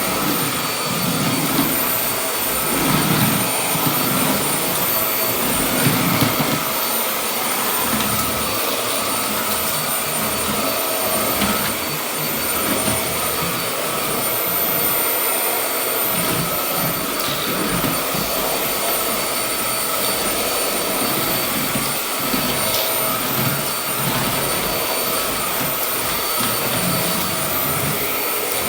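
Hoover Air cyclonic hard-floor vacuum running steadily with a constant whine while sucking up fine drywall dust.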